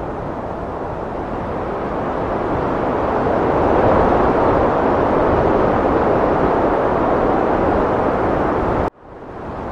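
Heavy wind blowing as a steady rushing noise. It swells over a couple of seconds and holds strong, then cuts out suddenly near the end and fades back in.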